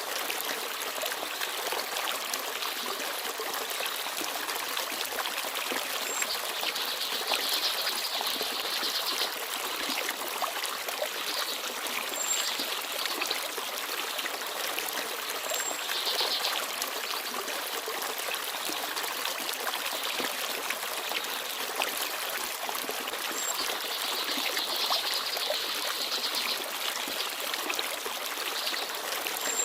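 Small forest stream babbling and trickling steadily over stones, with a few brief, very high peeps from small birds scattered through it.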